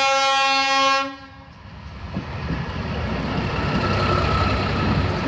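Batara Kresna railbus horn sounding one steady note, cutting off about a second in. The railbus then passes close by, its running noise building into a loud rumble and rattle.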